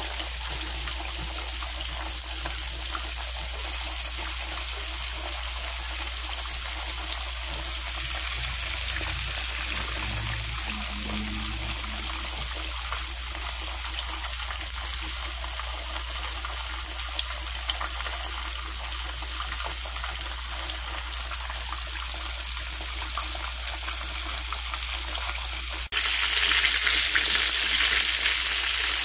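Flour-dredged buffalo fillets frying in hot oil: a steady sizzling hiss. Near the end it cuts suddenly to a louder, harsher sizzle.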